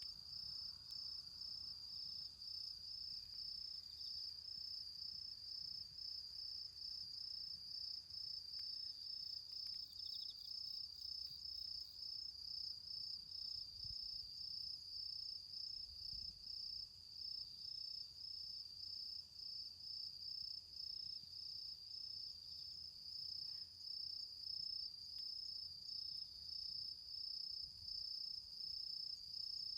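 Autumn insects chirping in a high, steady, evenly pulsing trill that never lets up.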